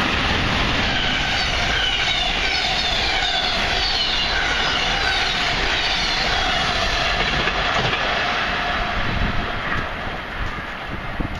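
Passenger train of stainless-steel cars passing at speed: a steady rush of wheels on rail with high whining tones that slide downward. The noise eases off about ten seconds in as the train draws away.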